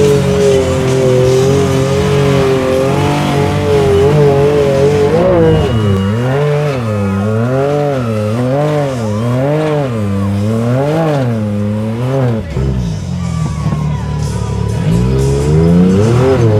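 Big mud-bog buggy engine under load, its revs rising and falling about once a second as the throttle is pumped in deep mud, dropping off briefly near the end before climbing again.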